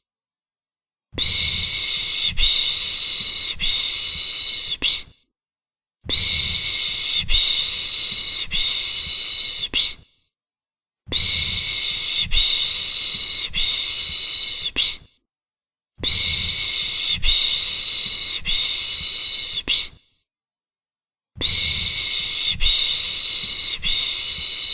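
A person shushing a baby to sleep, the Turkish 'piş piş': a long 'shhh' held for about four seconds, then a second of silence, five times over, with a soft pulse about once a second inside each shush.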